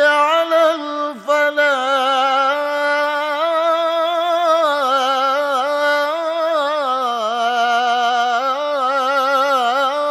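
A male muezzin chanting the adhan (Islamic call to prayer): one long, drawn-out melismatic phrase with slow, ornamented turns of pitch, broken only by a brief catch about a second in.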